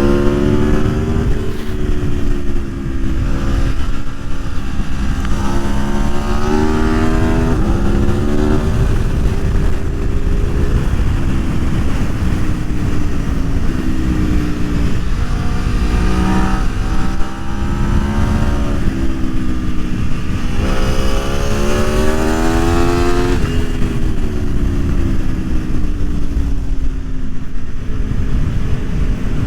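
Aprilia Tuono V4 1100's V4 engine pulling through the gears, its pitch climbing and dropping back at each upshift several times, under a constant low rush. About 21 seconds in it makes a long hard climb, then falls away as the throttle eases off.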